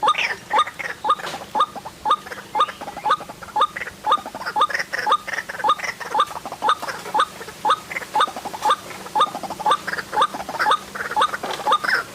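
White-breasted waterhen calling: a steady run of short, squeaky rising notes, about three a second, with more calls overlapping them.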